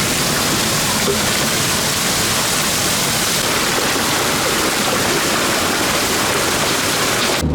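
Heavy rain and hail pouring down in a loud, steady hiss that cuts off suddenly near the end.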